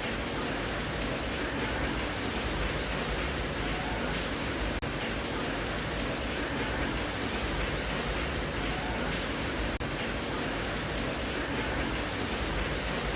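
Steady, even rain noise with no distinct drops standing out, broken by a brief dip in level about every five seconds.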